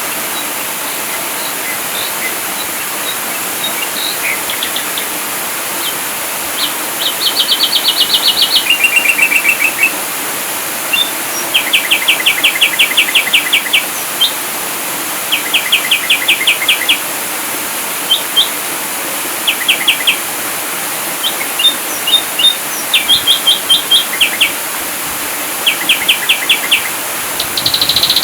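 Ashy drongo singing in repeated bursts of rapid, evenly repeated notes, each burst about one to two seconds long, some stepping down in pitch partway. A steady hiss runs underneath.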